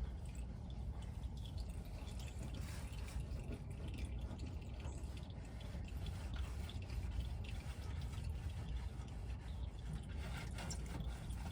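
Used engine oil draining from an engine's drain-plug hole into a drain pan, a faint, steady trickle and drip.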